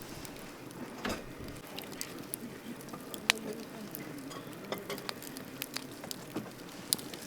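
Wood campfire crackling: irregular sharp pops and snaps, one louder pop about three seconds in, over a faint wavering hiss from the burning wood.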